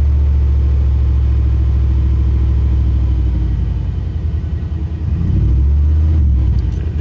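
Vehicle engine running in Park with unsteady revs: it runs strongly, sags about three and a half seconds in, then picks back up around five seconds in before dropping again near the end.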